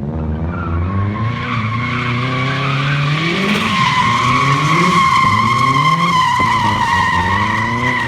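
Turbocharged Subaru, converted to rear-wheel drive, drifting. The engine revs rise and fall while the rear tyres squeal, the squeal building from about a second in to a loud steady screech.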